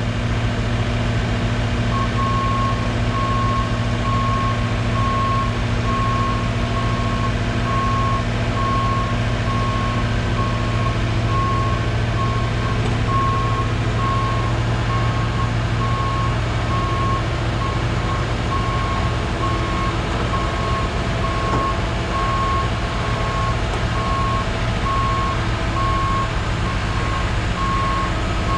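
A heavy diesel engine runs steadily while a backup/travel alarm beeps in a regular repeating pattern, starting about two seconds in. The boom lift is being driven slowly down off the rollback deck.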